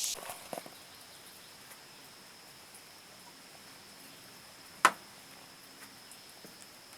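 A faint, steady, high insect-like drone, with a few small ticks and one sharp click about five seconds in.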